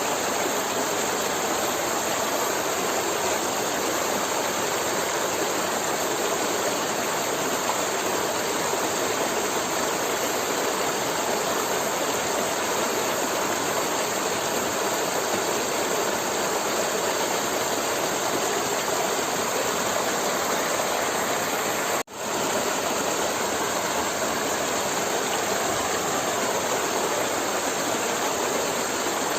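River water flowing steadily over rocks, a constant rushing noise. It cuts out for an instant about three quarters of the way through, then resumes unchanged.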